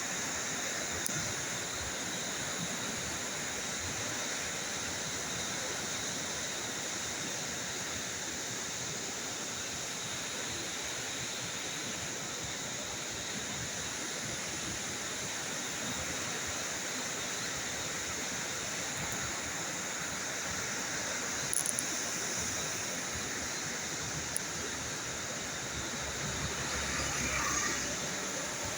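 Steady rushing of fast-flowing water.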